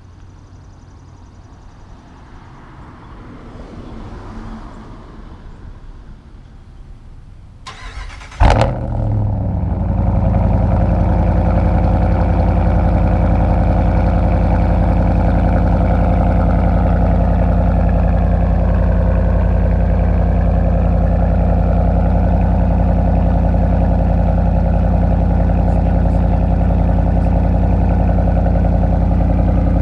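2015 Ram 1500's 5.7-litre Hemi V8 cold-starting through a muffler-delete exhaust with a Y-pipe: after several quiet seconds, a brief crank about eight seconds in, a loud flare as it catches, then it settles into a steady idle.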